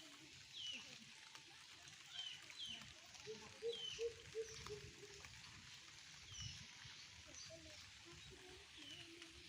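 Faint bird calls: short, high chirps that sweep downward, repeated about once a second. A brief run of lower pulsed notes comes about three to four seconds in.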